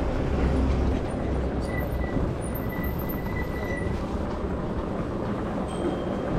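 Wind rushing over the microphone and street noise while riding an e-bike, a steady low rumble that eases after the first second or so. A faint steady high tone runs briefly about midway.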